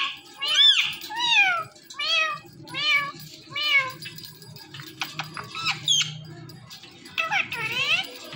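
Ring-necked parakeet mimicking a cat's meow: a run of about six meows, roughly one every 0.7 seconds and getting softer, in the first four seconds, then a few short squeaks and a rising whistle, and one more meow-like call near the end.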